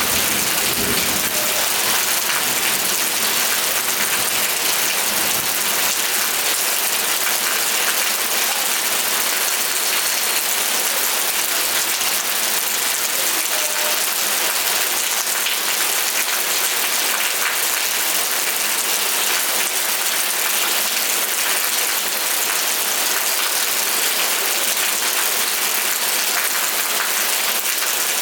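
Steady rain, an even crackling hiss, with the last of a low thunder rumble dying away in the first second.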